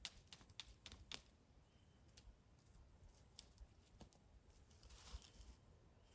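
Faint, irregular crackling pops of a campfire, a cluster in the first second and then only a few, with a brief soft hiss about five seconds in.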